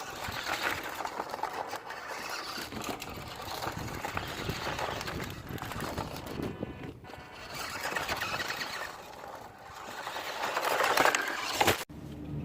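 WPL D12 1:10 RC drift truck driving and sliding about, its tyres scrubbing over the ground. The sound grows and fades as the truck comes near and goes away, loudest near the end, then cuts off suddenly.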